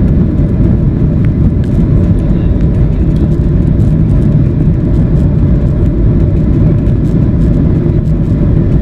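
Steady, loud low rumble of a Boeing 737-800 heard from inside the passenger cabin: its CFM56-7B jet engines and the airflow over the fuselage.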